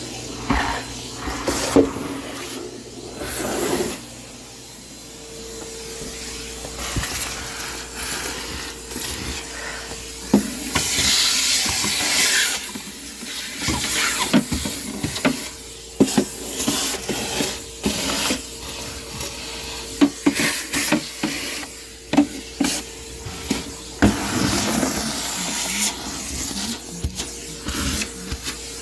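Household clutter being handled during cleaning: irregular knocks, clatter and rustling as objects are picked up and set down, with a few short bursts of hiss.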